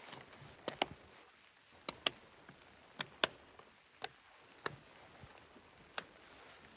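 About ten sharp, irregular ticks, some in quick pairs, over a faint steady hiss.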